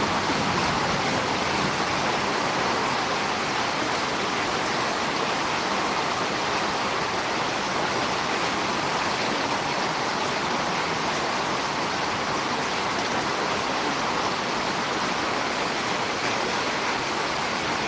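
Heavy typhoon rain falling steadily, an even hiss with no breaks.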